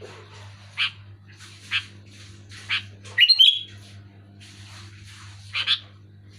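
Sooty-headed bulbul (kutilang) calling: short harsh notes about once a second, a louder quick run of chirps about three seconds in, and a fast double note near the end. A steady low hum runs underneath.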